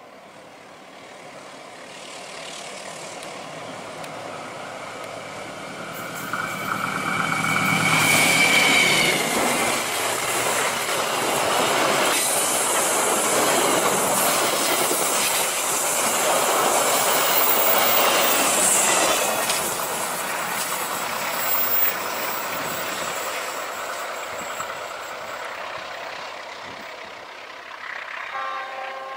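Diesel-hauled passenger train approaching and passing close by: the locomotive's engine swells to its loudest about eight seconds in, with a high tone, then the coaches rumble and clatter past over the rails before the sound fades away near the end.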